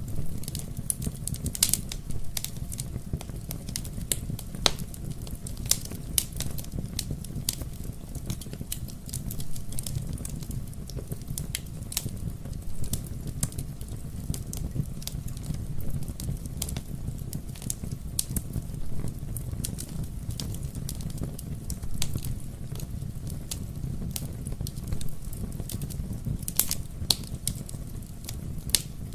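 Wood fire crackling in a fireplace: frequent irregular sharp pops and snaps over a steady low rumble of the burning flames.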